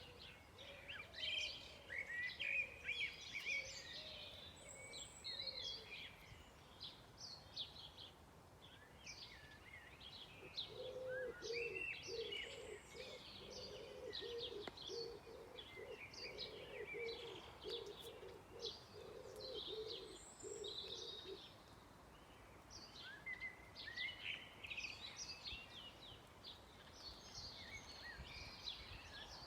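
Several songbirds singing in a dusk chorus, with quick high chirps and trills throughout and a lull in the middle. From about a third of the way in, a low call repeats steadily for about ten seconds under the song.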